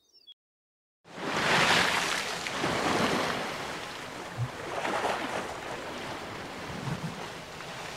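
A loud rushing noise that starts abruptly about a second in and swells and eases every second or two, like surf.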